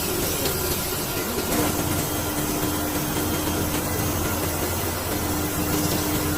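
Induction hardening machine running: a steady hiss and low hum, with a steady tone that comes in about one and a half seconds in.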